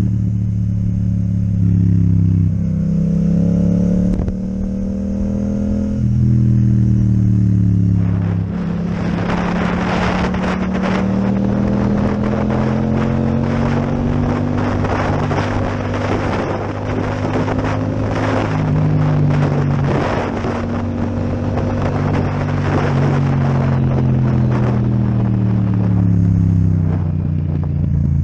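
Yamaha MT-07's parallel-twin engine with an Akrapovic exhaust, running under way, its pitch rising and falling with throttle and gear changes. About eight seconds in, a rough rushing noise with crackles joins the engine note.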